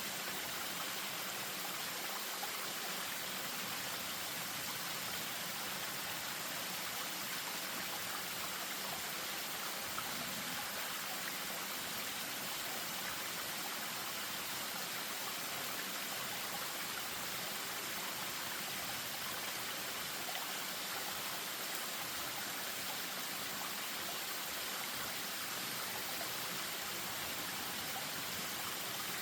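Spring-fed stream running over a small waterfall, a steady, even rush of water.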